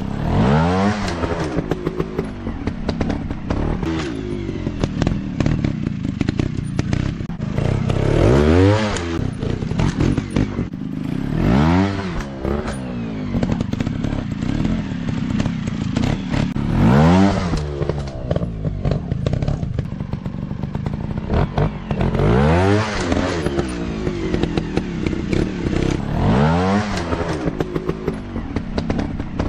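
Dirt bike engines revving up and dropping back again and again, about seven times, as the bikes ride, with rattling knocks throughout.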